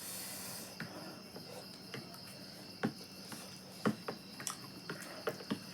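Crickets chirping steadily in the background, with scattered light clicks and taps from eating at the table.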